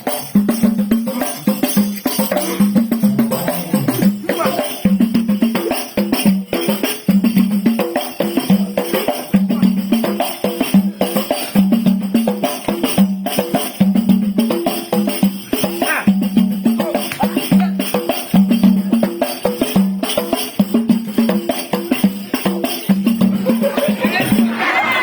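Percussion-led music: drums and jingling tambourine-like rattles playing a steady, repeating beat over a low pitched figure.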